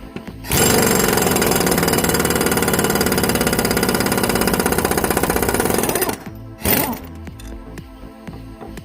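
Impact wrench hammering rapidly for about five and a half seconds, then cutting off, with a brief second burst about a second later.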